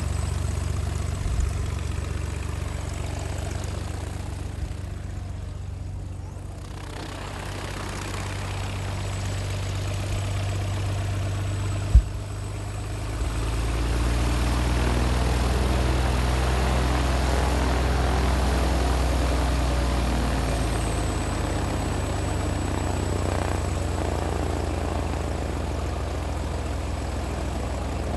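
An engine running steadily at idle, with a sharp click about twelve seconds in. Soon after the click a deeper, louder engine note comes in and holds for several seconds before easing back.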